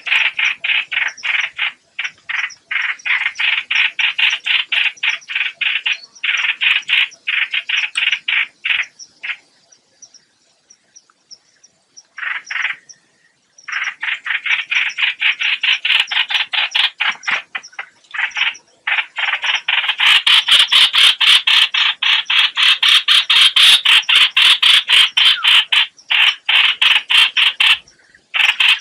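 Rapid, harsh chattering call of the 'hoạch hoạch' bird, played as a trapping lure. It comes in long runs of about six notes a second, with a pause of a few seconds near the middle, and grows louder in the last third.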